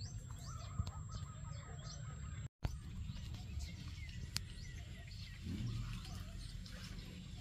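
Wild birds chirping, many short high chirps with a rapid repeated call in the first two seconds, over a steady low background rumble. The sound cuts out completely for a moment about two and a half seconds in.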